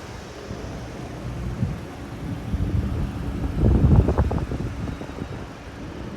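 A vehicle running, with wind buffeting the microphone; it swells louder about four seconds in.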